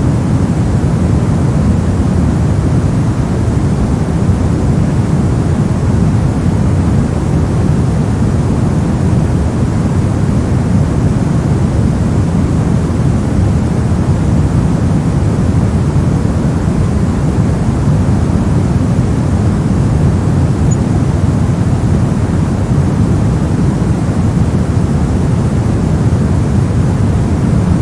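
Steady, unbroken white noise, weighted toward the low end so it sounds deep rather than hissy.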